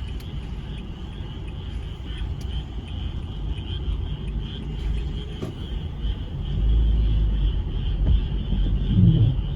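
Chorus of frogs making a steady, dense high-pitched din, over a low rumble that swells in the second half.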